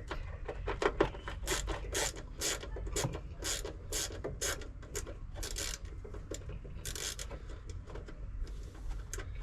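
Hand ratchet wrench clicking in repeated strokes, about two a second, thinning out near the end, as bolts are checked for tightness.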